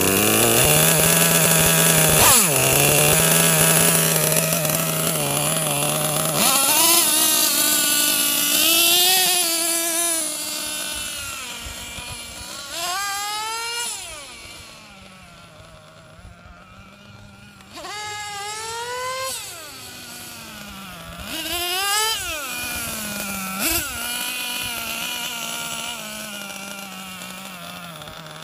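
Small two-stroke gas engine of a Losi XXL-2 RC monster truck, with a high, buzzing note. It holds steady for about six seconds, then revs up and down repeatedly as the throttle is worked. It gets fainter around the middle and louder again with several quick throttle blips near the end. This is break-in running on the fourth tank of fuel.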